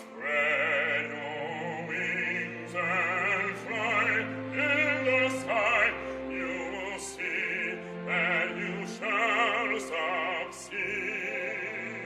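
Operatic singing with strong vibrato, in short sung phrases over sustained instrumental accompaniment.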